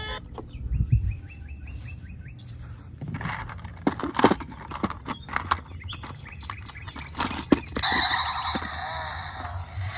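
A quick run of about eight short repeated chirps, then scattered sharp clicks and knocks of plastic toy cars being handled and knocked together. Near the end a dense, busy electronic-sounding noise starts.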